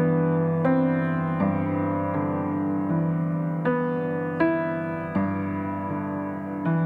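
Background piano music: slow, single sustained notes struck about once every three-quarters of a second over a held chord, each fading gently.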